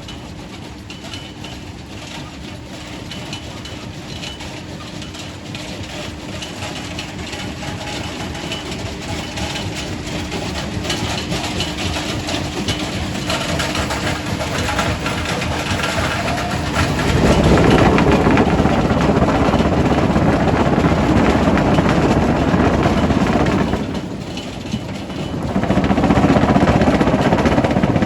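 Quarry primary rock crusher running: a steady machine hum under a rumble that builds slowly, then becomes much louder and denser about two-thirds of the way in as rock is crushed, easing briefly and picking up again near the end.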